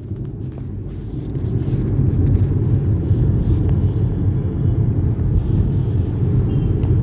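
Steady low rumble of a moving car heard from inside the cabin: engine and road noise, a little louder from about two seconds in.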